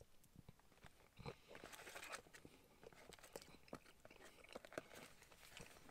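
A person chewing a mouthful of crispy fried chicken and chips: faint, irregular crunching and small mouth clicks.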